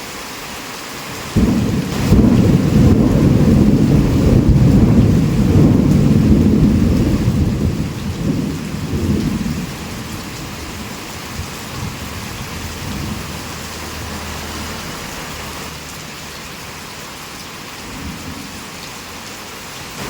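Heavy rain falling steadily. About a second in, a loud roll of thunder breaks in suddenly, rumbles low for about eight seconds and fades away, leaving the rain alone. Another roll begins at the very end.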